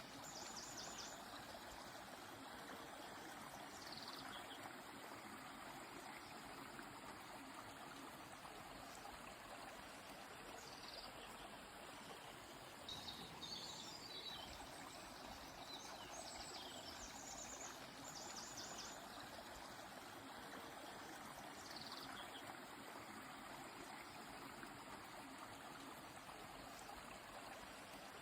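Faint, steady rush of a flowing river, with small birds calling high above it every few seconds: short trills and single notes falling in pitch.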